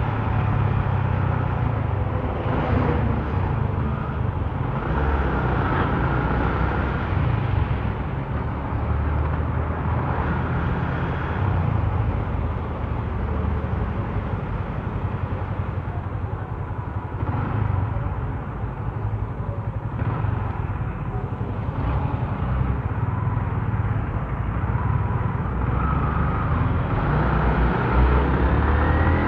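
Motorcycle engine running under way in city traffic, its pitch rising and falling with the throttle, along with road noise.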